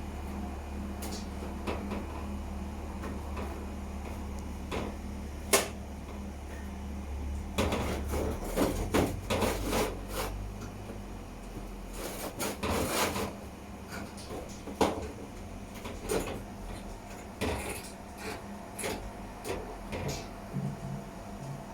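Scattered clicks, knocks and clatter of hard parts being handled, over a steady low hum that shifts about seven seconds in.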